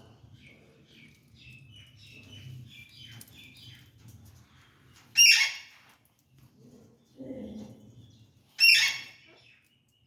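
Ring-necked parakeet chirping softly in a quick run of short high notes, then giving two loud, harsh squawks about five and eight and a half seconds in, with a short lower-pitched sound between them.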